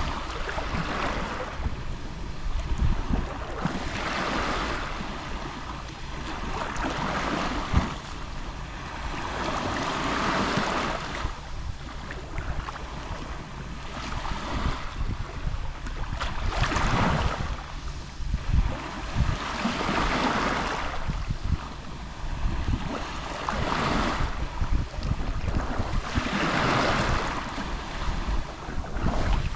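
Gentle Mediterranean sea waves lapping on the shore, a wash of surf that swells and ebbs every few seconds, over a steady low rumble.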